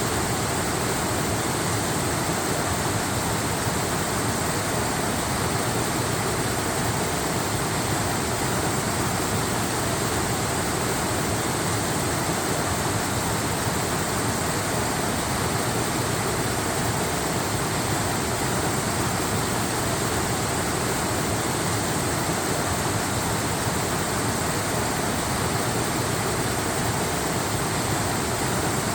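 Waterfall rushing, a steady unbroken wash of noise that does not change in level.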